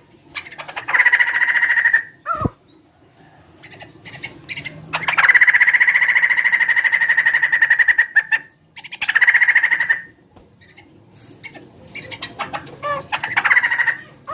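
Laughingthrush (poksay) giving loud, rapid rattling chatter, a chicken-like cackle, in bursts: a short one about a second in, a long one of about three seconds from about five seconds in, another near ten seconds, and shorter calls near the end.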